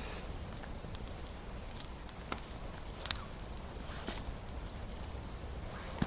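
Wood campfire burning, with scattered sharp pops and crackles.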